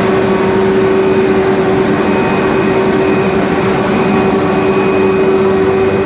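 Loud, steady running of sugar-factory machinery: an even, noisy drone with a constant hum and no breaks.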